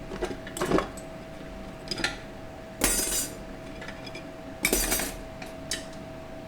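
Metal parts of a 4L60E automatic transmission clinking and clattering as they are handled and set down on the bench during a teardown: about half a dozen separate knocks, the loudest around three seconds in and just before five seconds.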